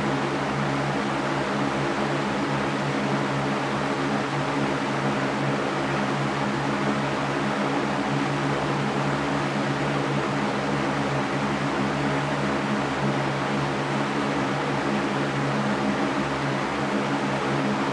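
Electric fan running steadily: an even rushing of air with a low motor hum underneath.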